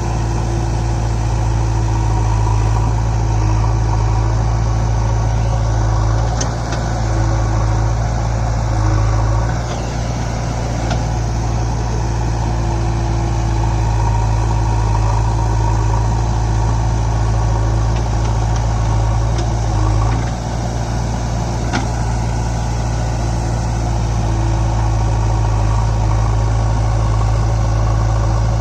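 Diesel engine running steadily, with brief dips in level a couple of times and a few faint clicks.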